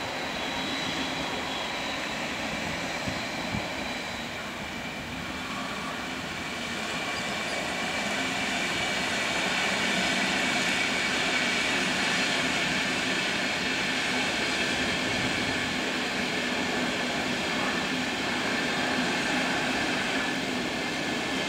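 Train running through the station, a steady rushing sound with faint high whines, growing louder about seven seconds in and holding there.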